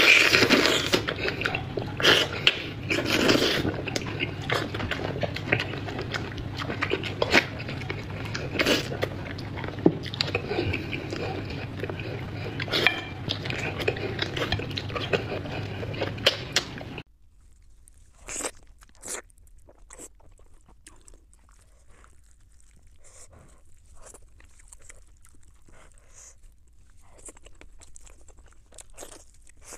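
Close-miked eating sounds: biting and chewing braised trotters, with dense, loud mouth clicks. About halfway through the sound drops suddenly, leaving only sparse, soft chewing clicks from braised meat being eaten.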